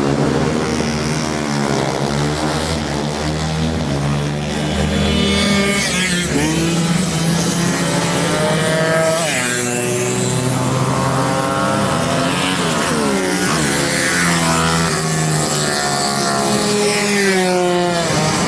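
Several racing motorcycle engines lapping a circuit, their overlapping pitches rising as they rev through the gears and dropping as they pass and brake.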